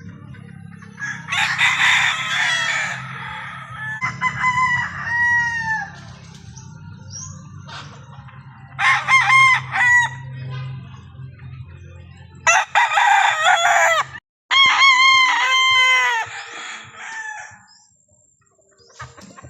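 Roosters crowing, about five crows in turn, some overlapping, over a low steady hum that stops about two-thirds of the way through.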